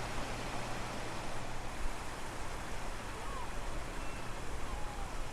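Strong wind rushing and buffeting the microphone over the sound of ocean surf, a steady noise with a low rumble. A few faint short bird chirps come through in the second half.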